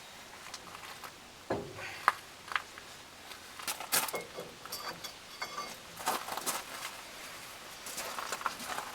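Scattered metallic clinks, taps and knocks of hand tools and steel parts being handled while a hydraulic crane cylinder is reassembled, with one sharp knock about two seconds in.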